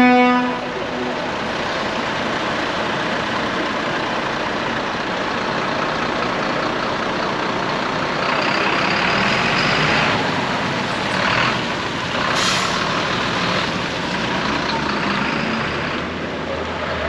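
Heavy lorries running and moving off in convoy. A short horn blast comes right at the start, and air-brake hisses come about halfway through.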